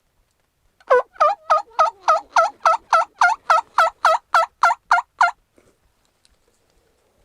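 Turkey yelping: a loud, steady series of about sixteen evenly spaced yelps, each note breaking in pitch, lasting about four and a half seconds.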